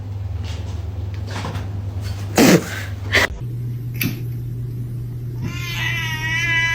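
Domestic cat giving one long, wavering meow near the end, over a steady low hum. A couple of sharp knocks come earlier, about halfway through.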